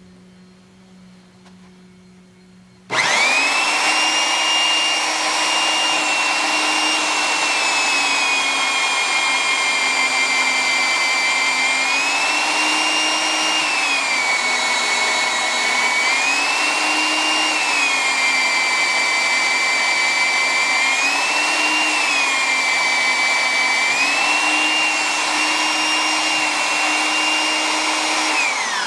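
Magnetic-base drill press with an annular cutter, boring a hole in a steel channel. The motor starts about three seconds in and runs with a loud whine whose pitch dips and recovers several times. It winds down at the very end.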